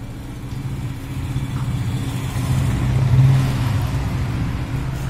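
A motor vehicle's engine running with a steady low hum, swelling to its loudest about three seconds in and then easing off.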